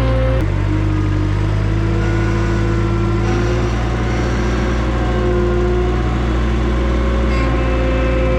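Toyota SDK7 skid steer's engine running steadily, with a whining tone that drifts a little in pitch. The sound shifts abruptly about half a second in.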